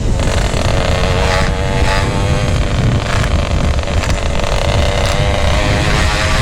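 Yamaha RX-King two-stroke motorcycle riding along at a steady engine note through a GRT18 K26 aftermarket exhaust, with wind buffeting the microphone.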